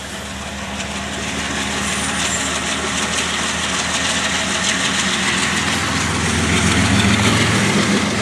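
Diesel-electric locomotive of a BNSF freight train approaching and passing close, its engine running with a steady low note over wheel and rail noise. The sound grows louder and is loudest near the end.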